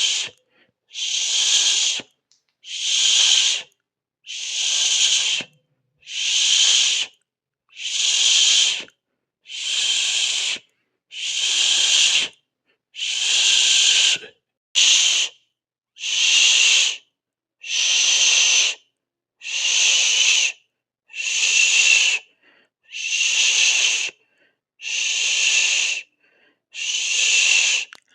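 A voice making a long 'shhh' hiss over and over, about one every second and a half with short silences between, as in rhythmic shushing.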